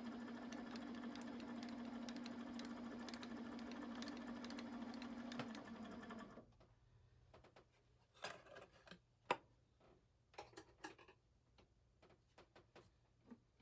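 A small machine tool running under a cut, a steady hum with rapid fine ticking, then shutting off about six seconds in. Scattered sharp clicks and knocks follow.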